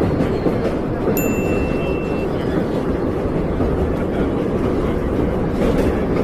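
Subway train running, a steady loud rumble of the moving car, with a brief high-pitched tone about a second in.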